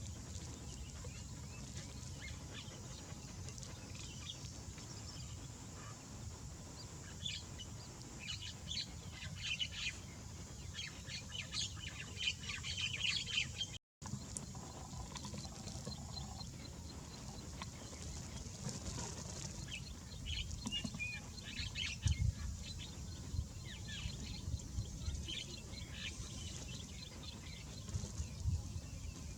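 Birds chirping in quick runs of short, high calls over a low steady rumble, with a brief gap about halfway through.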